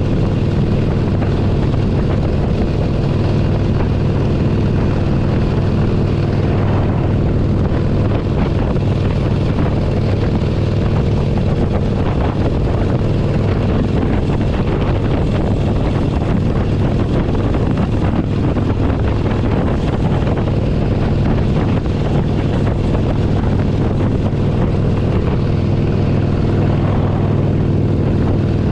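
Harley-Davidson Forty-Eight Sportster 1200's air-cooled V-twin engine running at a steady cruise, with wind rushing over the microphone.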